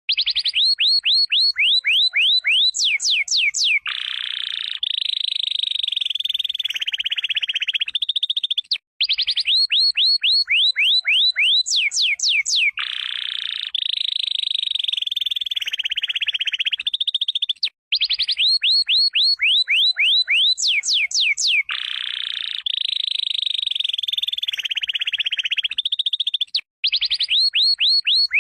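Male canary singing: rapid trills of downward-sweeping whistled notes alternating with buzzy rolls. The same phrase sequence repeats identically about every nine seconds, a looped recording of the song.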